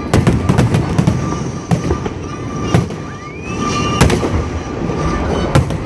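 Fireworks display going off up close: a dense run of bangs and crackling over a low rumble, with the sharpest bangs about four seconds in and again near the end. A short rising whistle sounds just after three seconds in.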